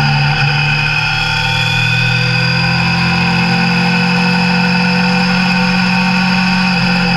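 Suzuki Bandit 600's inline-four engine running at a steady cruise under way, restricted to 34 hp for the A2 licence.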